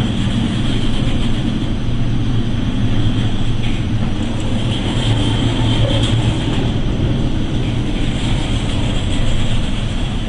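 Steady low engine drone aboard a ship, under a constant rushing of wind and sea.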